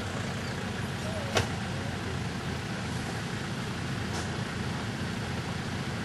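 Off-road 4x4's engine running steadily at low revs. There is a sharp knock about a second and a half in and a fainter one near four seconds.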